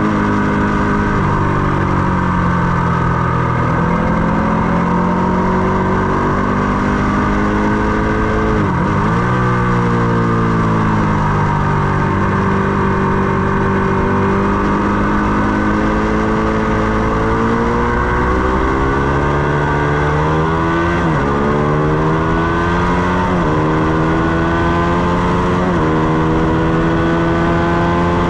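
Ducati Panigale 899's V-twin engine, heard onboard at speed on a racetrack, rising and falling with the throttle. The revs drop sharply about nine seconds in and pick up again. In the last third they climb repeatedly, each climb cut short by an upshift.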